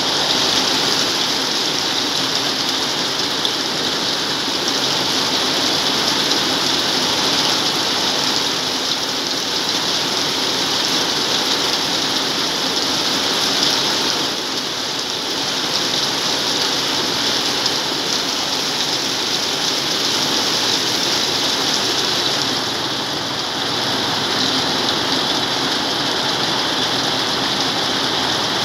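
Heavy tropical rain falling steadily, much of it beating on a corrugated metal roof just below: a dense, even hiss that eases slightly twice, about halfway and two-thirds of the way through.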